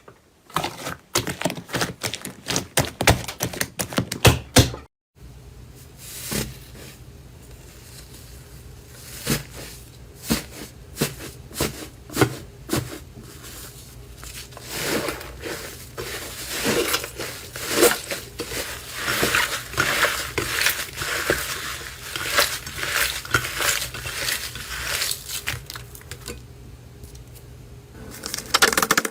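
Slime being squished and stretched by hand, making dense crackling and popping clicks. The sound cuts off briefly about five seconds in; after that, the crackling continues over a steady low hum and is busiest past the middle.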